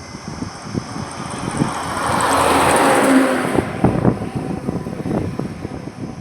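A road vehicle passing close by in highway traffic. Its tyre and engine noise swells to a peak about three seconds in and falls away quickly. Irregular low thumps run through it.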